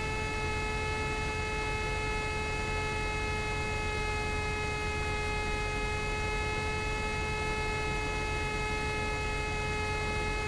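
Steady electrical hum at one constant pitch, with a low rumble beneath, in a light aircraft's cockpit audio feed.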